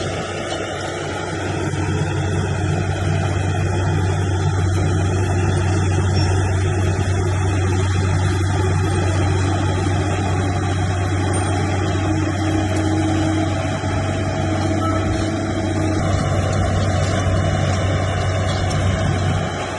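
Heavy diesel engine of earthmoving machinery running steadily under load.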